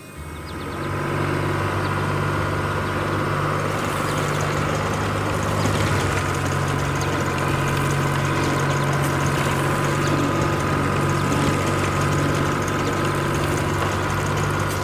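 Heavy vehicle engine sound effect running steadily at an even pitch, rising in over about the first second.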